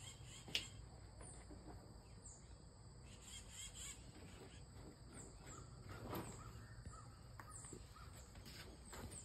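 Faint outdoor ambience with a bird giving short, high, falling chirps again and again. A single sharp click comes about half a second in, and there are soft rustles of hands working the soil.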